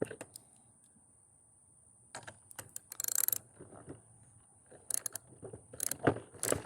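Socket ratchet working a skateboard axle nut, with metal parts handled: scattered clicks and rattles, and a short run of rapid clicking about three seconds in.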